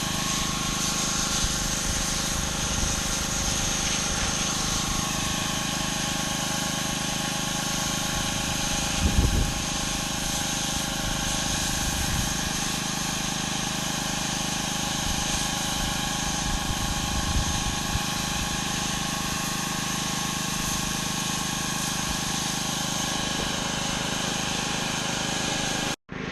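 Pressure washer's engine running steadily under the hiss of its high-pressure water spray on concrete. A brief low thump about nine seconds in.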